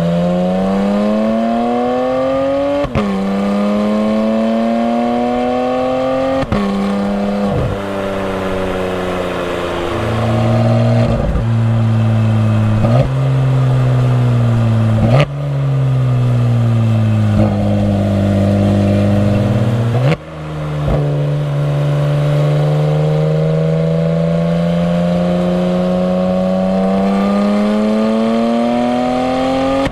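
Porsche 991 GT3's flat-six exhaust, through Fabspeed sport headers and side muffler bypass pipes, revving up under load. Its pitch climbs and drops sharply at quick gear changes. In the middle there is a stretch of lifting off and changing down with sudden jumps in pitch, and in the last third it makes one long, steady climb in revs.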